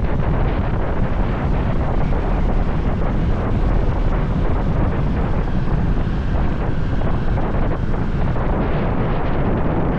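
Wind buffeting the microphone on a moving motorbike, a steady loud rumble with the bike and road traffic underneath.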